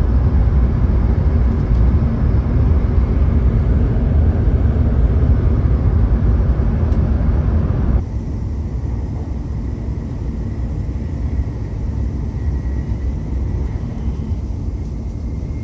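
Steady low rumble of a Hokuriku Shinkansen train running at speed, heard from inside the passenger cabin. It drops abruptly to a quieter level about halfway through.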